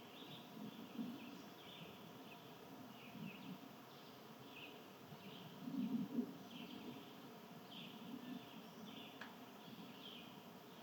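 Small birds chirping faintly, short high chirps repeating about twice a second, over a low outdoor rumble that swells briefly about six seconds in.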